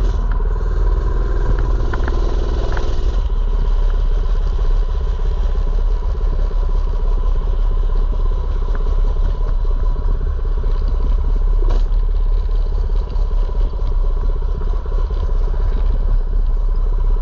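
Mini bike's small gas engine running steadily while riding.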